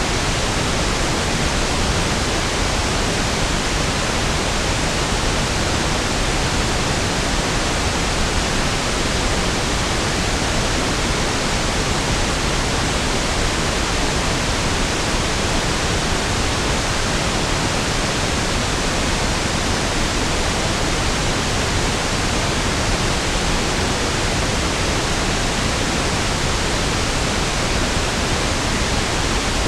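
Steady pink noise (1/f noise): an even, unchanging hiss with equal energy per octave, softer in the highs than white noise.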